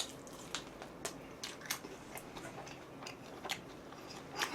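Faint, irregular clicks and smacks of a person chewing food close to the microphone, about two a second.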